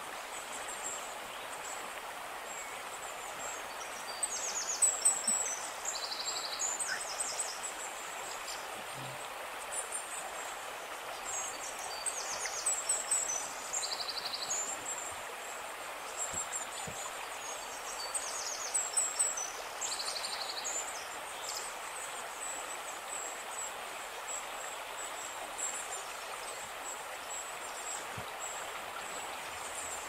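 A songbird chirping in high, rapid trilled phrases that come every few seconds, over a steady hiss.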